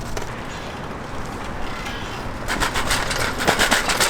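A heavy rental Lime bike rattling as it is ridden off-road over rough ground, over a low rumble. A dense clatter of rapid ticks comes in about two and a half seconds in.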